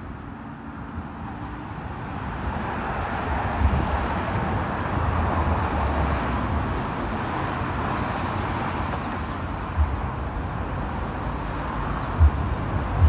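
Steady rushing noise of distant road traffic that swells over the first few seconds and then holds, with a few short low thumps of wind on the microphone.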